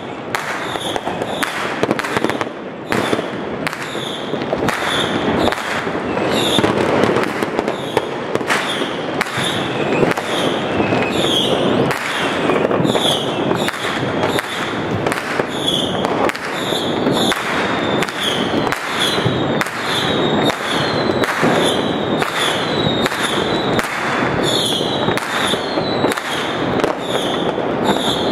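Fireworks and firecrackers going off in a dense, unbroken barrage: steady crackling with many sharp bangs close together.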